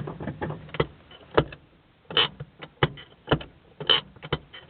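Handbrake lever of a 1993 Kia Pride being worked, its ratchet giving a string of irregular clicks and knocks, a few louder than the rest.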